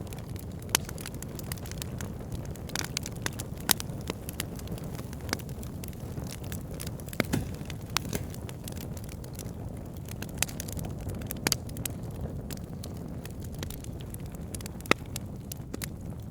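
Wood fire burning with a steady low rumble and irregular sharp crackles and pops from the logs.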